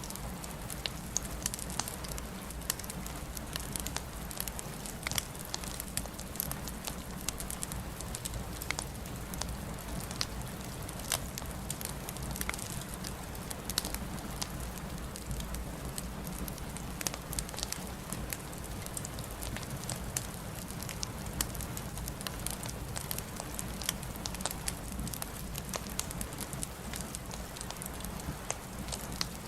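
Wood fire crackling in a fireplace, with frequent sharp, irregular pops and snaps over a steady low rumble and hiss.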